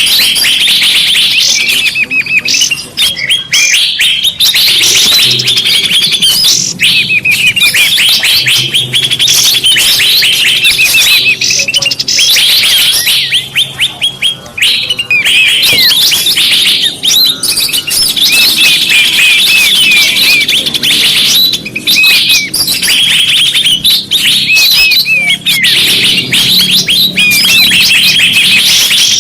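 Bird-lure playback recording: a dense, loud chorus of rapid high chirps and curling trills from many small birds, run together without a break.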